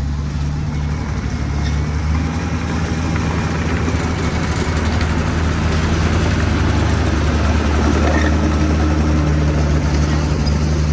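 Diesel engine of heavy earthmoving machinery running steadily, its low note joined by a rushing noise that grows gradually louder.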